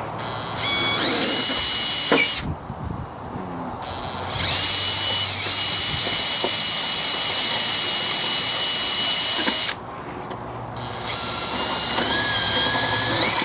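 Electric drill running in three bursts, each a high whine that rises as the motor spins up. The bursts last about two seconds, five seconds and two and a half seconds. The pitch sags briefly early in the long burst as the bit takes load while drilling holes in metal.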